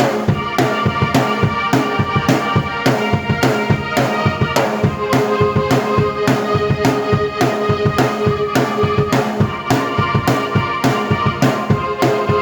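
Drum kit and keyboard playing together: a steady drum beat of about three strokes a second under sustained, string-like keyboard chords.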